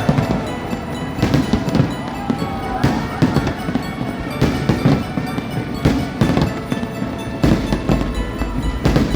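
Fireworks display: aerial shells bursting in a string of loud bangs, roughly one a second, with crackle between them.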